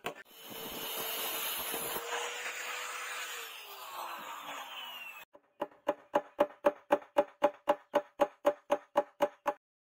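A small power tool whirs for about five seconds, its pitch falling toward the end as it winds down. Then come rapid, regular strokes, about five a second, typical of hand work on metal.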